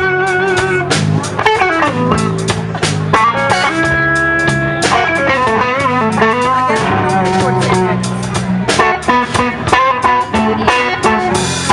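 Electric blues band playing a slow blues: a lead electric guitar plays bending, sustained notes over bass and drums.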